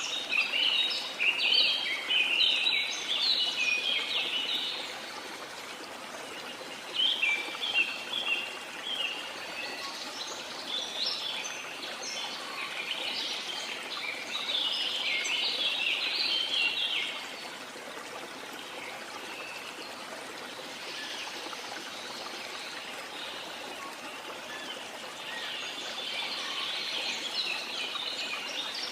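Rainforest soundscape: a steady hiss of heavy rain under flurries of high, rapid bird chirping that come and go, with a calmer stretch of rain alone after the middle before the chirping returns near the end.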